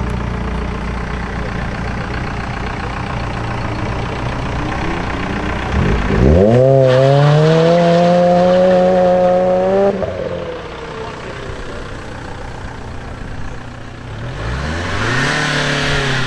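Modified car engine running low. About six seconds in it is revved up quickly and held high for about four seconds, then drops back. A second, shorter rev comes near the end.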